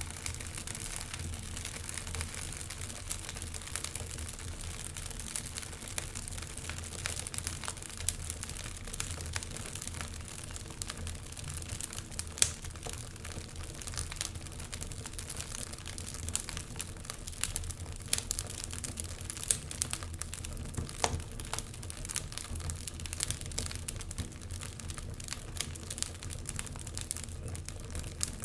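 Wood fire burning in a fireplace: a steady low rumble of flames with continual irregular crackles and occasional louder pops.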